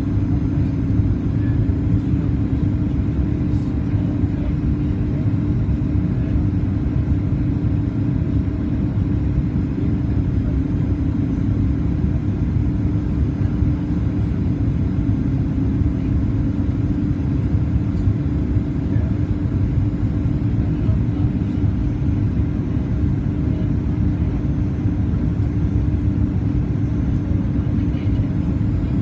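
Steady cabin rumble inside a Boeing 737 MAX 8-200 in flight: airflow and CFM LEAP-1B engine noise with a constant low hum.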